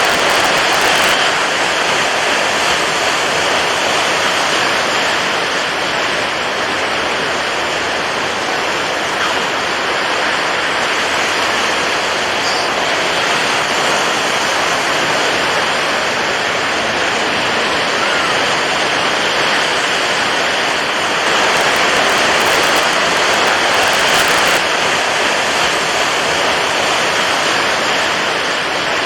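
Water waves: a steady, even rush of water, swelling a little louder about three quarters of the way through.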